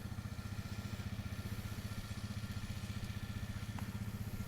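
Engine idling steadily with an even, rapid pulse.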